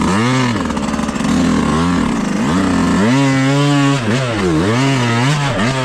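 Dirt bike engine revving up and down over and over as the throttle is worked in short bursts at low speed, with one longer held rev about halfway through.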